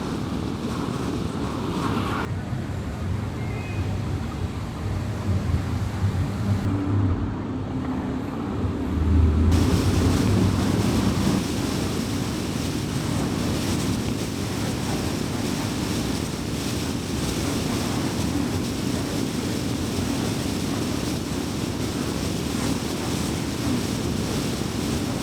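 A car driving, with a steady rumble of road and tyre noise and engine hum. The character of the noise changes abruptly about two seconds in and again near ten seconds, then settles into an even rush.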